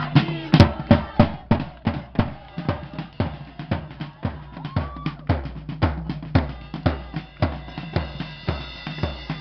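A steady drum beat, about three hits a second, with a low bass line under it.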